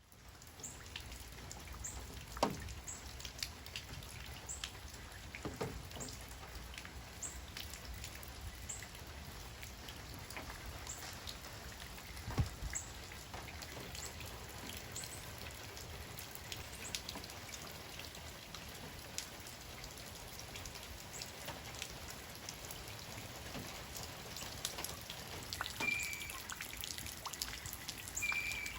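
Steady rain, with individual drops ticking on a surface and a few heavier drops standing out. Near the end, a short high chirp sounds twice.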